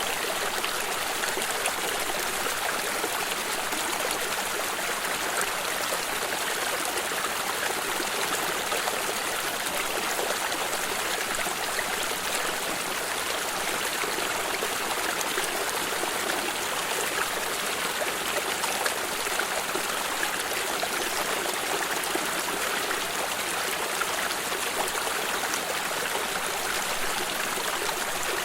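Water flowing steadily in a stream, a constant rushing and trickling with no breaks.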